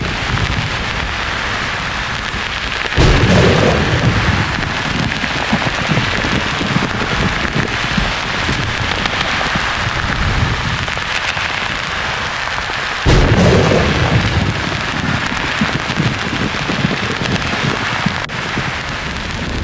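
Steady white-noise hiss with two claps of thunder, about three seconds in and again about thirteen seconds in, each breaking suddenly and rolling on as a low rumble for several seconds.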